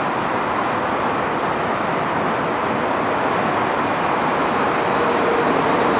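Metro-North electric commuter train rolling through the station: a steady rush of wheel and rail noise, with a faint whine showing up in the second half.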